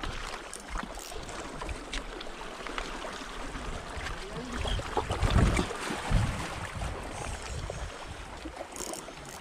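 Sea water sloshing and lapping with a steady rush, and low buffeting thumps in the middle, likely wind or handling on the microphone.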